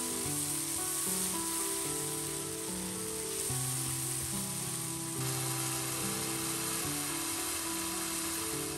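Red chili spice paste sizzling steadily as it fries in oil in a non-stick pan. Soft background music with held notes plays throughout.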